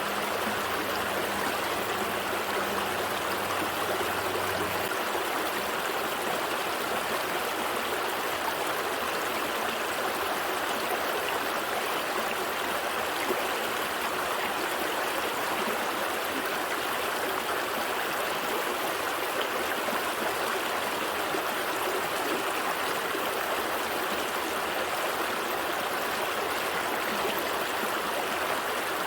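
Gentle stream of water flowing steadily over rocks, a continuous even rush and gurgle.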